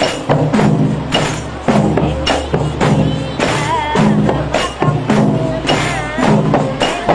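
Rebana frame drums beaten in a steady, repeating rhythm, with a voice singing a wavering, ornamented melody over them.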